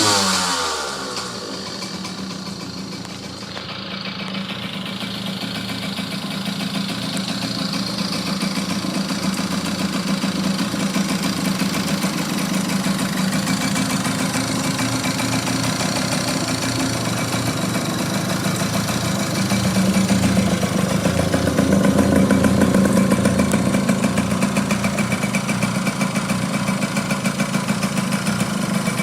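Yamaha GT50 mini bike's 49 cc single-cylinder two-stroke engine falling back from a rev to idle in the first second or so, then idling steadily, a little louder from about twenty seconds in.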